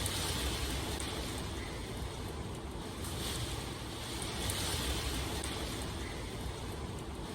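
Steady rain falling, a continuous hiss that swells and eases, with a low rumble underneath.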